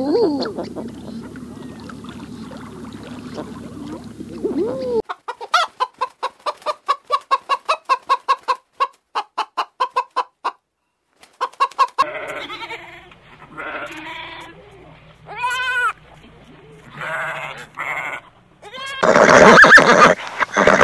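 A Canada goose honks right at the start and again a few seconds later. Then a domestic hen clucks in a quick even run of about four clucks a second, followed by separate louder hen calls. Near the end a horse whinnies, the loudest sound in the stretch.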